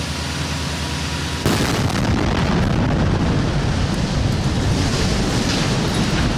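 Loud rushing roar of a snow avalanche, stepping up suddenly about a second and a half in and then holding steady.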